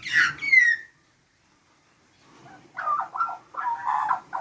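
Australian magpies calling: a short call gliding down in pitch, then, after a pause of about a second and a half, a run of warbling song.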